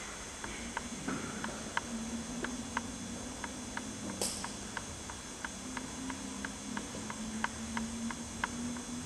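Faint ticking, two to three short clicks a second and not quite evenly spaced, over a low steady hum.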